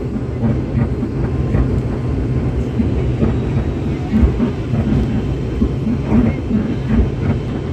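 Steady low rumble of an airliner heard from inside the passenger cabin, with faint voices murmuring underneath.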